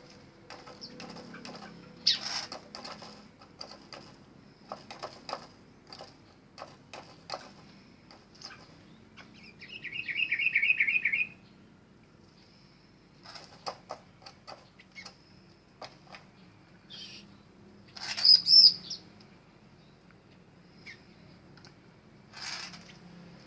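Birds chirping and calling, with many short sharp clicks scattered through. A quick trill of rapid repeated notes comes about ten seconds in, and a louder high call about eight seconds later.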